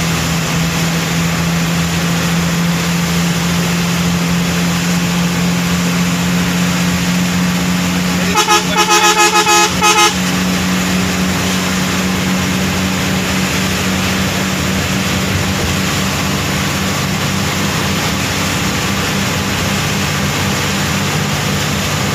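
A heavy road vehicle's engine drones steadily. About eight seconds in, a loud multi-tone horn sounds in a quick string of about seven short blasts over two seconds.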